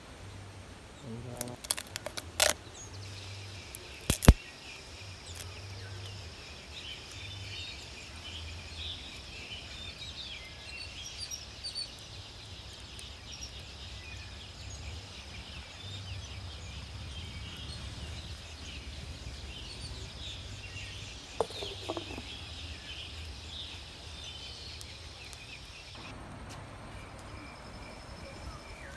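Birds chirping in a busy, steady chatter that stops abruptly near the end, with a few sharp clicks early on and one loud knock about four seconds in.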